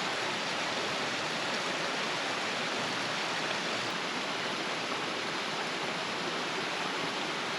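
Valley stream flowing, a steady even rush of water.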